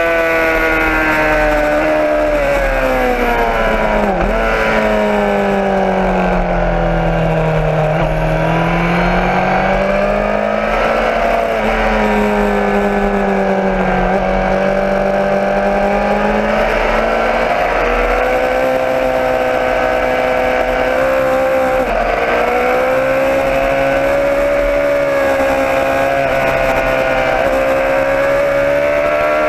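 Motorcycle engine running under way, its pitch sinking and climbing slowly as the revs change, with a few sudden brief dips.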